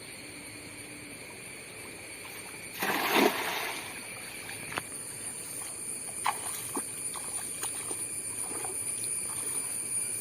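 A cast net splashing into the water about three seconds in, followed by scattered drips and small splashes. Insects buzz steadily throughout.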